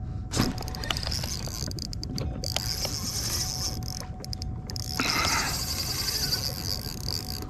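Water splashing and hissing around a fishing kayak, starting suddenly about half a second in, over a steady low rumble, with a louder burst of splashing about five seconds in.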